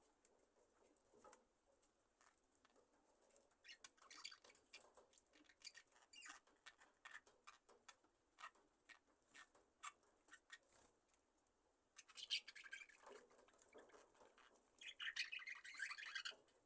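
Budgerigar flock, faint: many small quick clicks and scratches from the birds moving about, then two short bursts of soft chirping near the end.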